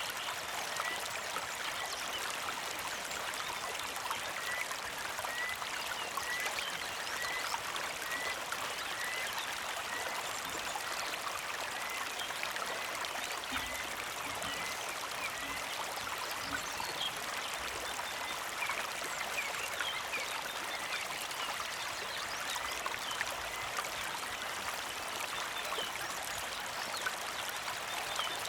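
Small creek trickling and flowing steadily. A bird repeats one short chirp a little more than once a second through the first half, and other scattered chirps follow in the second half.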